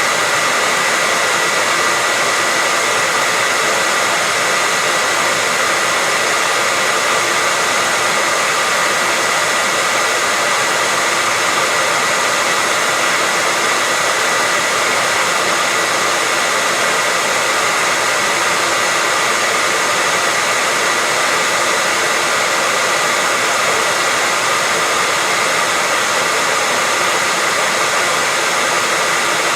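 Hair dryer running steadily as white noise for lulling a baby to sleep: an even, unbroken hiss with a steady high whine from the motor.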